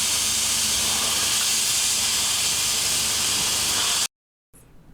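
Steam locomotive venting steam: a loud, steady hiss that cuts off suddenly about four seconds in.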